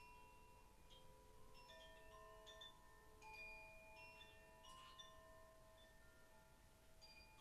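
Chimes struck softly, one note after another, with several clear metallic tones ringing on and overlapping.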